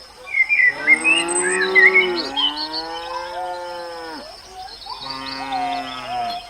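A cow mooing three times in long, drawn-out calls, each falling in pitch at its end, with birds chirping in the background.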